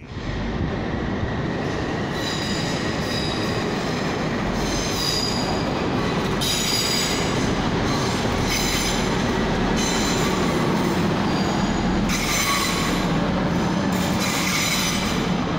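TransPennine Express Class 185 diesel multiple unit moving slowly through the station over a steady rumble of engine and wheels. Its wheels let out repeated high-pitched squeals, each lasting about a second, every second or two.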